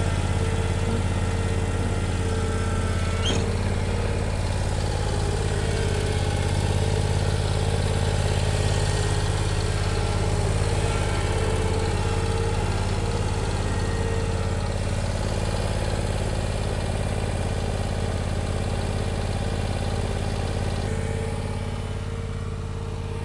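Bad Boy Elite zero-turn lawnmower engine running steadily while the mower is driven, its level easing slightly near the end.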